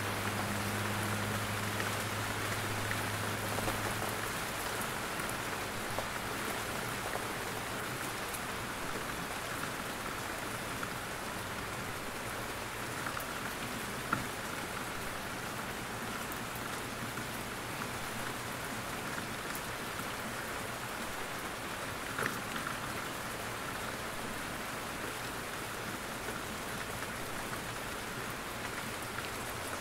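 Steady rain falling through forest trees, an even hiss with scattered louder drips, a few sharp single drops standing out.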